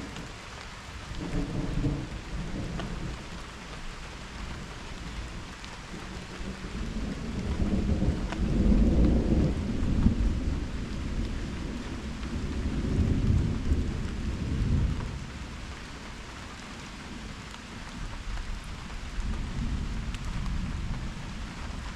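Steady rain falling. Thunder rumbles over it: a short roll about a second in, then a long, loud roll that swells up and peaks around the middle, rolls on, and fades, with a fainter rumble near the end.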